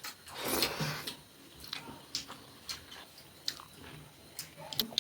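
Close-miked eating sounds: chewing and biting food, with a breathy burst about a second long at the start, then scattered short mouth smacks and clicks.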